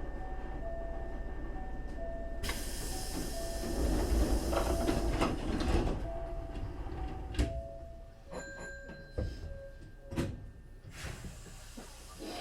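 Pneumatic sliding doors of a Hankyu 3300 series commuter car closing: a short run of repeated beeping tones, then a loud hiss of air about two seconds in and a heavy thud as the doors shut, followed by a few sharp knocks.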